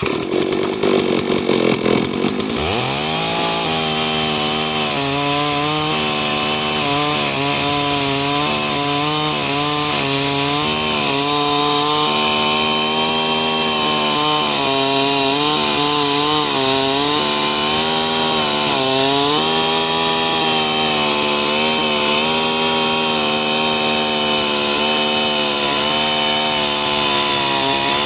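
Holzfforma G660 large-displacement two-stroke chainsaw running hard under load in an Alaskan chainsaw mill, ripping a slab. The engine note shifts a couple of seconds in, then holds high with small wavers in pitch as the chain bites.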